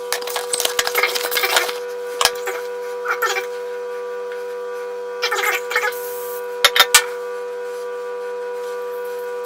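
A steady droning chord of several held tones, with bursts of scratchy rustling and handling noise in the first two seconds and again now and then, and three quick sharp clicks about seven seconds in.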